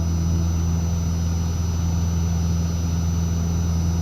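Cessna 152's four-cylinder Lycoming engine and propeller running at full power in the climb just after lift-off, a steady low drone.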